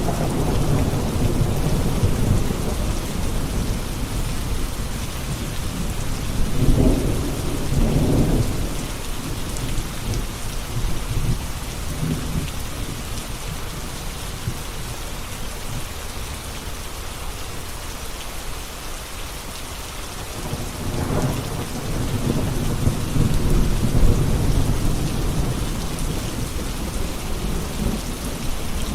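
Steady rain falling with rolling thunder: a low rumble swells about seven seconds in, eases off through the middle, and rumbles up again past twenty seconds.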